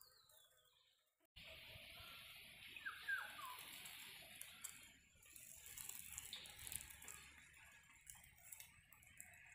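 Faint bird calls over a steady background hiss. A few short falling calls come about three seconds in. The background jumps suddenly louder just over a second in.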